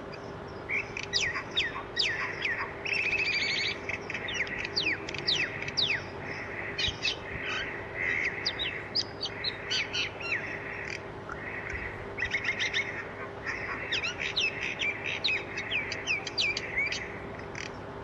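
Several birds chirping and twittering: many short, sharp falling chirps and quick runs of twittering, with a faint steady hum underneath.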